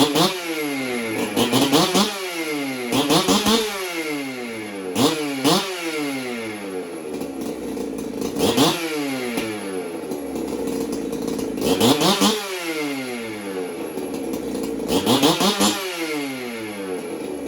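Jonsered 2065 two-stroke chainsaw engine running and revved over and over. Each quick rise in pitch falls back to idle, several times over.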